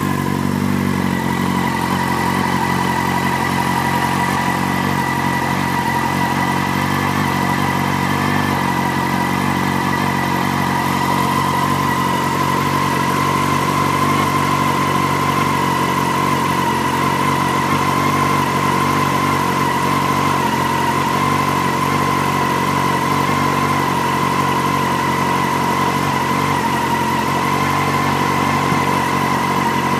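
Yamaha YZF-R1's inline-four engine idling steadily while it warms up from a cold start, its temperature still reading low, with a steady high whine over the idle.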